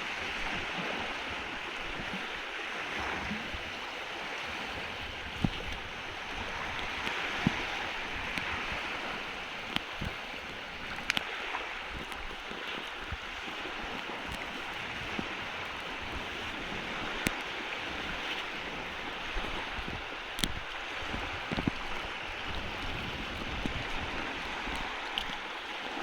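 Steady wash of shallow seawater with wind noise, broken by scattered short sharp knocks and splashes.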